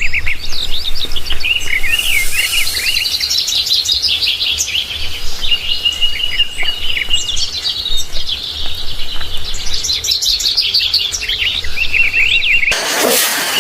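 AI-generated birdsong: several birds chirping and trilling in quick, overlapping phrases. Near the end it cuts off suddenly into a loud rushing noise.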